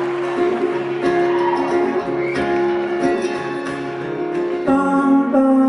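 Acoustic guitar strummed and picked in a song's instrumental introduction, with sustained chords that change near the end.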